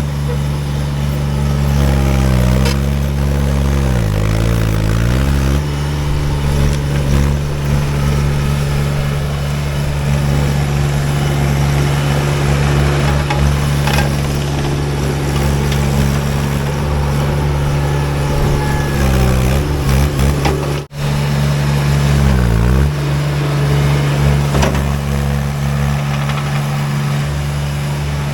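Baumalight TRL620D mini skid steer's diesel engine running steadily at working throttle. Its pitch dips briefly several times as the engine pulls down under load, then recovers.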